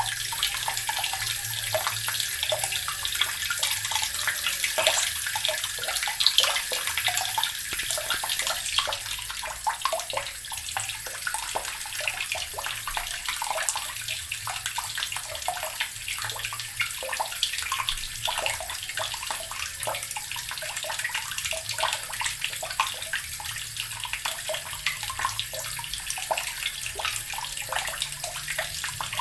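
Water running steadily from a tap, an even splashing hiss with no change.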